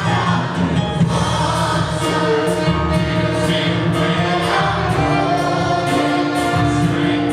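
Congregational worship music: a church band playing with a group of voices singing together over a steady beat.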